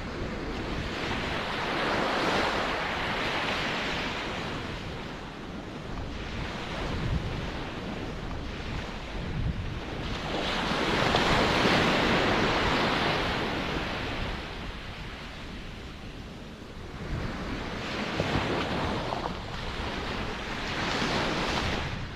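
Ocean surf: waves breaking and washing in, the hiss swelling and fading in slow surges every several seconds, loudest about halfway through.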